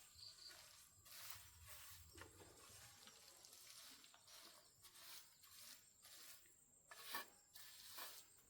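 Near silence with faint rustling and a few light clicks or taps, the sharpest about seven seconds in.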